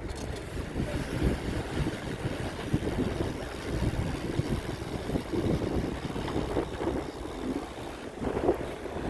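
Wind buffeting the microphone while riding a bicycle: an uneven low rumble with no distinct events.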